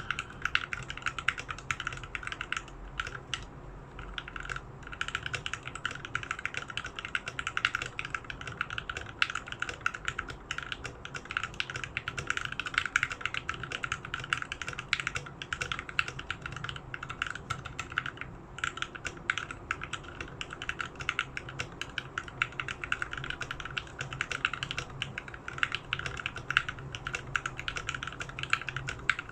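Typing on a 65% mechanical keyboard with broken-in Tealios V2 linear switches: fast, continuous keystrokes, with brief pauses about three seconds in and again just past the middle.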